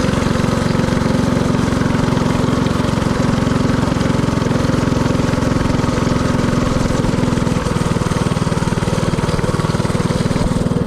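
Predator 224cc single-cylinder four-stroke engine of a mini-bike running steadily under way, its exhaust pulsing rapidly.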